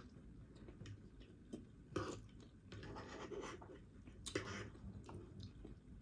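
Faint close-mic eating sounds: quiet chewing, with a few soft clicks about two seconds in and again about four and a half seconds in.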